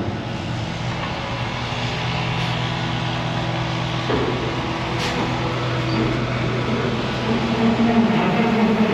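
A heavy equipment engine running steadily, its pitch shifting about halfway through and again near the end as the machine works.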